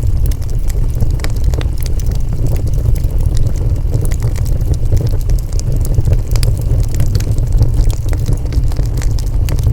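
Wood fire burning: a steady deep rumble with frequent small, irregular crackles and pops.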